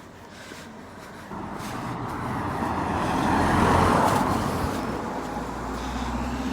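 A road vehicle driving past, its tyre and engine noise swelling to a peak about four seconds in and then fading, with a low engine hum near the end.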